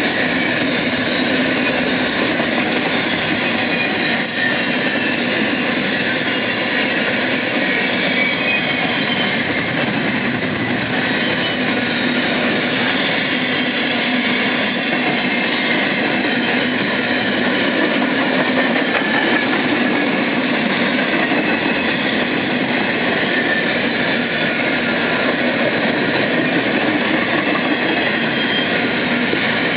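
BNSF freight train rolling past at steady speed: a continuous rumble and rattle of wheels on the rails, with faint high squealing tones over it.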